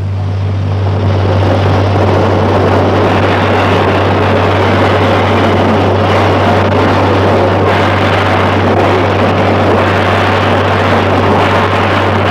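Narrow-gauge steam train running: a steady rushing noise over a constant low hum, with no distinct beat.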